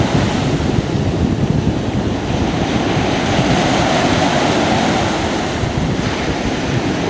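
Sea surf breaking and washing on the beach, with wind buffeting the microphone.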